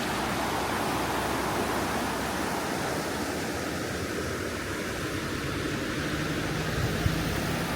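A river rushing in a steady, even wash of water noise. A low steady hum joins it near the end.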